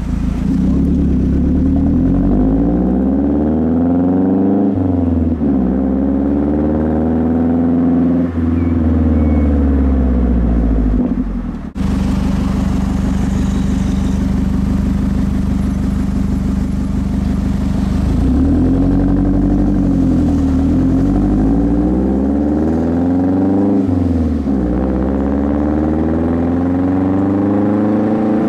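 2009 Mazdaspeed 3's turbocharged 2.3-litre four-cylinder running through a Magnaflow aftermarket exhaust, its revs climbing and falling again and again. About 12 seconds in the sound briefly drops out, then holds a steady even note for several seconds before the rising and falling revs return.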